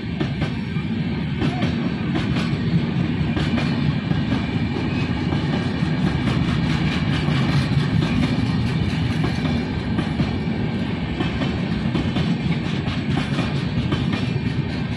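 Train running on track: a steady rumble of wheels on rail with frequent clicks as the wheels cross rail joints.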